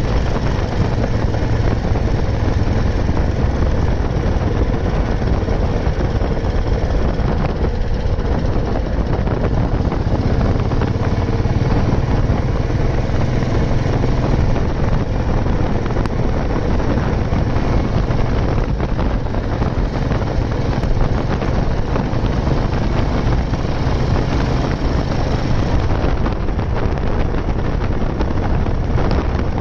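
Old Royal Enfield Bullet 350's single-cylinder engine running steadily while the motorcycle is ridden, with wind noise on the microphone.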